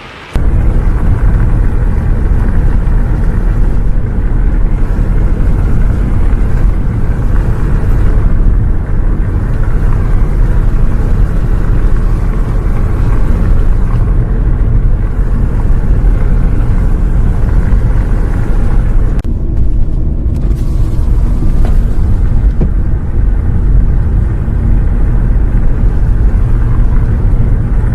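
Steady, loud low rumble of a bus driving, heard from inside the cabin as engine and road noise. It starts abruptly and cuts off suddenly near the end.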